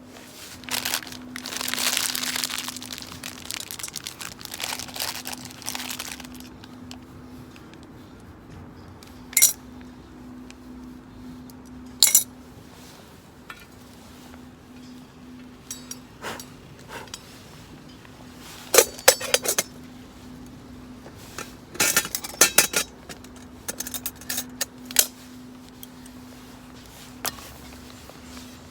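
Metal camp cookware being handled: a rustling scrape in the first few seconds, then scattered clinks and knocks, in quick clusters past the middle. A faint steady hum sits underneath.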